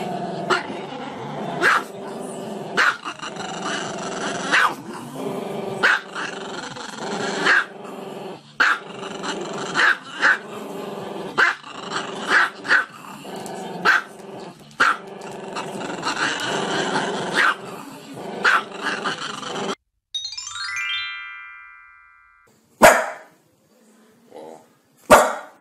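A small dog howling along to music with a steady beat. Both stop suddenly near the end, followed by a short falling chime and then two sharp barks from another dog.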